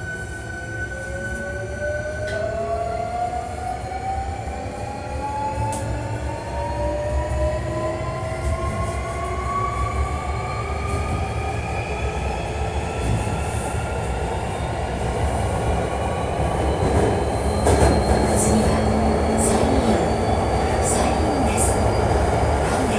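Hankyu 1300 series electric train car, known for its unusual acceleration and braking sounds, heard from inside while accelerating. A steady high tone stops about two seconds in, then the traction motor and inverter whine climbs steadily in pitch in several tones as speed builds. Rolling noise grows louder, with a jump late on.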